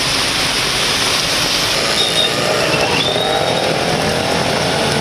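Steady hiss of heavy rain on a flooded city street with traffic, and a two-wheeler engine buzzing through it. A few short high squeals come around the middle.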